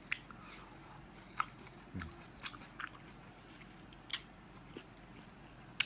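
Quiet close-up chewing of scallop meat: scattered short wet mouth clicks and smacks, spaced irregularly.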